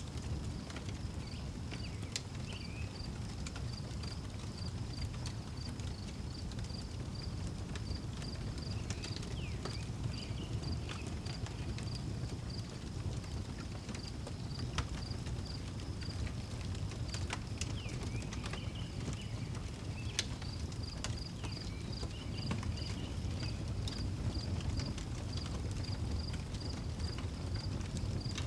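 Outdoor wood fire burning with a low rumble and scattered sharp crackles and pops, while crickets chirp in a steady pulse of about two chirps a second that fades out for several seconds in the middle; a few short bird calls come in now and then.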